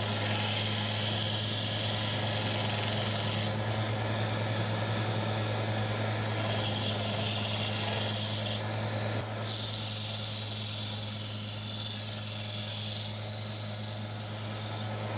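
Electric grinder running with a steady hum while a hardened steel knife blade is ground against it to take off forge scale. The grinding hiss rises and falls as the blade is worked, dropping out briefly about nine seconds in.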